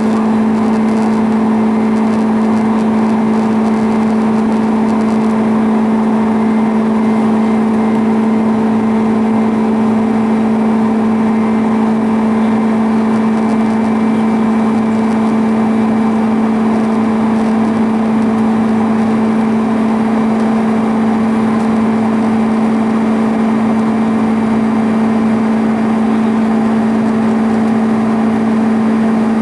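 Airbus A310's jet engines running at steady power, heard from inside the passenger cabin: a loud, even drone with a strong low hum and a fainter tone above it.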